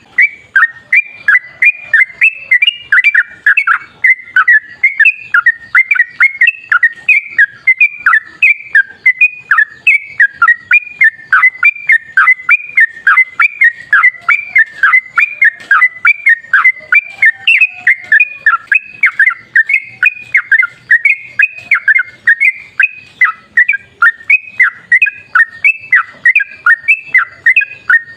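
Yellow-vented bulbul (trucukan) singing a long unbroken run of loud, rapid, bubbly notes, about four a second. This is the continuous 'ropel panjang' song that keepers use as a lure to get a trucukan to answer.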